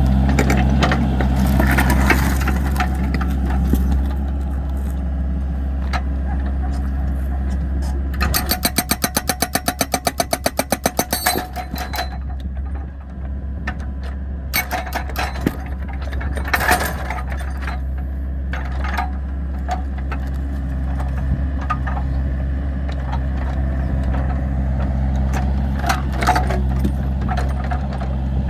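Excavator's diesel engine running steadily, with scattered knocks and cracks of the machine working the firewood. About eight seconds in there is a rapid, even pulsing rattle, about six pulses a second, lasting some three seconds.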